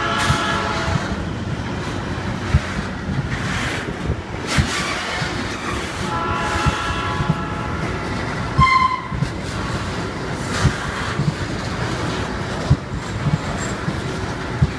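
Freight train of tank cars rolling slowly past close by: wheels knocking irregularly over the rail joints, with high-pitched metallic squealing at the start and again about six to nine seconds in.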